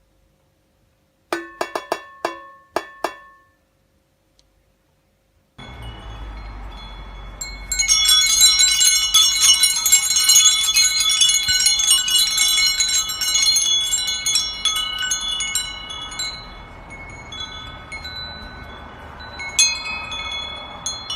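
Metal chimes ringing: a handful of sharp single strikes, then from about six seconds in a dense jangle of many chimes at once that thins out after the middle, with a few fresh strikes near the end.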